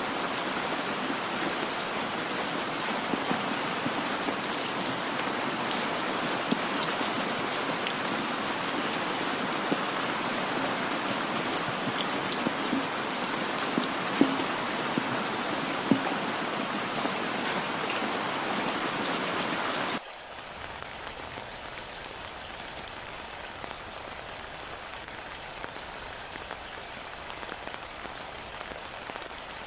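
Heavy rain falling steadily, with scattered ticks of individual drops. About two-thirds of the way through it cuts suddenly to a quieter, duller rain.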